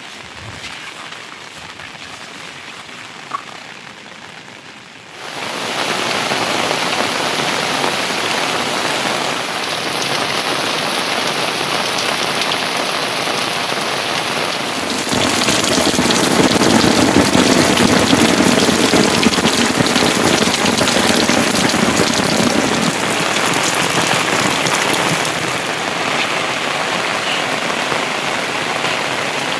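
Heavy rain falling, a steady even hiss of downpour. It is quieter for the first few seconds, with a single click, then jumps suddenly louder about five seconds in and swells again around the middle.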